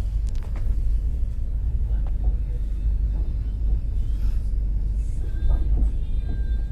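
Low steady rumble of a passenger train running, heard from on board, with scattered faint clicks over it.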